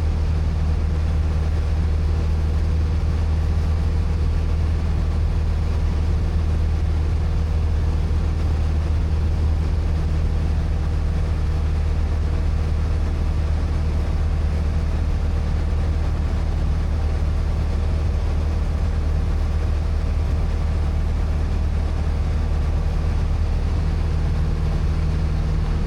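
Light single-engine airplane's piston engine and propeller droning steadily in cruise, heard from inside the cabin: a constant low hum with no change in pitch or level.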